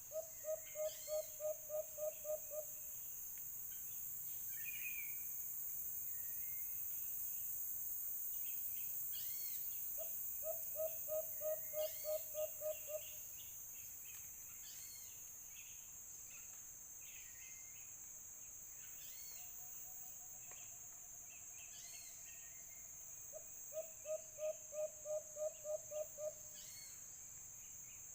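Dove calling: a phrase of about ten quick, even low coos, given three times, over a steady high insect drone.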